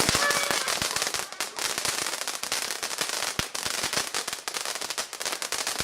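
A lit firework crackling: a rapid, dense stream of small pops and crackles over a hiss, with a few louder single cracks.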